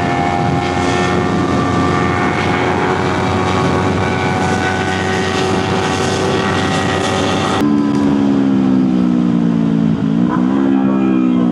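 Motorcycle engine running at steady revs while riding, with wind noise. A sudden change about two-thirds of the way through gives a lower engine note that dips briefly and picks up again, as at a gear change, then falls away as the bike slows near the end.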